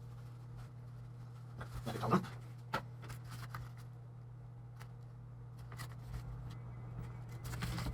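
Light clicks, taps and rustles of small plastic laptop parts being handled, a few sharper taps about two and three seconds in, over a steady low electrical hum.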